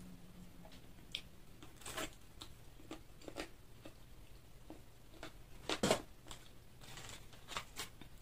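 A person eating fried chicken close to the microphone: chewing with scattered short crunches and mouth clicks, the loudest about six seconds in.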